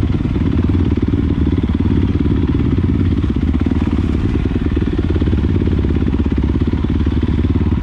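Dirt bike engine running steadily close to the microphone, with rapid, even firing pulses and no revving up or down.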